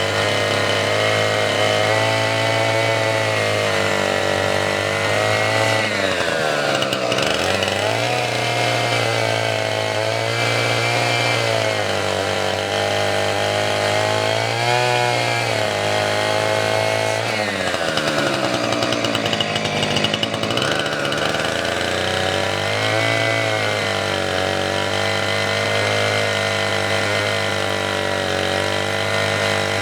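Gasoline chainsaw running at high speed while cutting firewood; its engine note sags twice, about six and eighteen seconds in, and climbs back.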